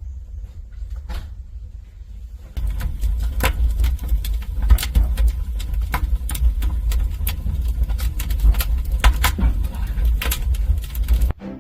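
Wood fire crackling in a wood-burning stove: many sharp, irregular pops that get denser and louder about two and a half seconds in, over a steady low rumble, cutting off abruptly near the end.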